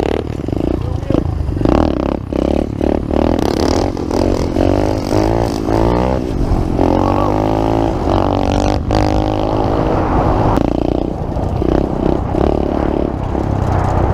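Pit bike engines revving hard while pulling away, with the pitch climbing through each gear and dropping at the shifts.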